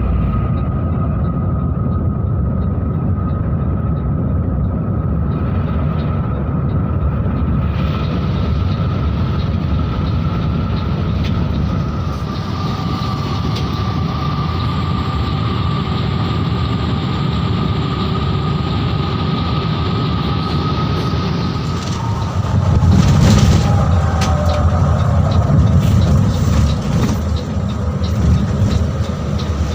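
Mercedes-Benz 1626 coach running on the road: a steady, loud rumble of engine and road noise with a thin steady whine over it. It grows louder about three-quarters of the way through, with a few knocks.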